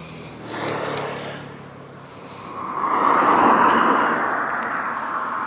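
A car passing close by on the road, its tyre and engine noise building to a peak about three seconds in and then slowly fading.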